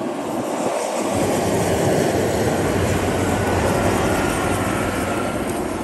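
A passenger train passing at speed: a steady rushing roar that swells and then eases off near the end, with a faint high whine in the middle.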